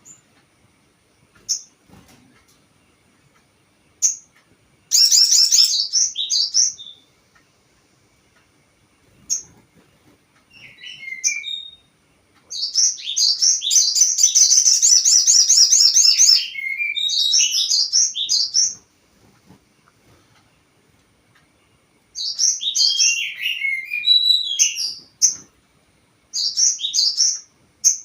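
Sogon songbird singing: a few single high chirps, then bursts of fast, high, repeated chirping notes, the longest running several seconds, with short pauses between. This is song used as a pancingan, a lure to set other birds of the kind singing.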